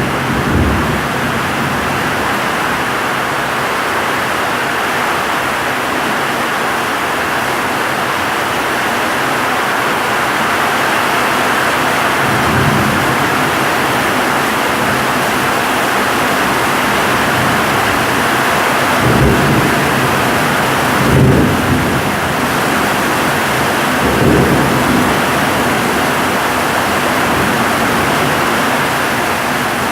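Heavy tropical downpour with strong wind, a dense steady hiss of rain, broken several times by low rumbles of thunder: about twelve seconds in, twice around twenty seconds, and again about twenty-four seconds in.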